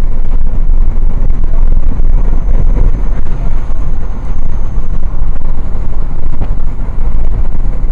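A vehicle driving, with a loud, steady low rumble of road and wind noise.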